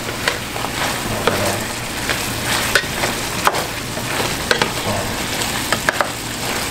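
Rabbit adobo sizzling steadily in a square pan as it cooks down, with scattered sharp ticks and pops. Near the end a spatula stirs the meat.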